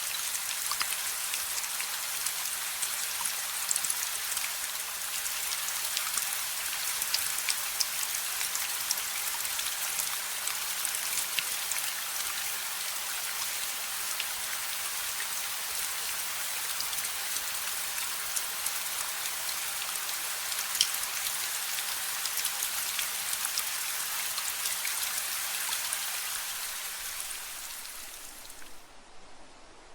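Rain falling on hard surfaces, a steady hiss full of small drop ticks, fading out near the end.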